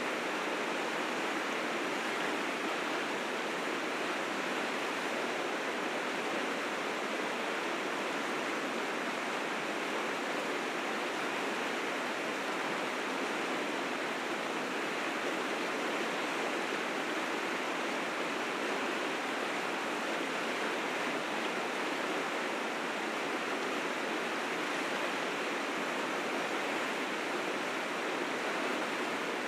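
River rapids running high with spring snowmelt: a steady, even rush of whitewater.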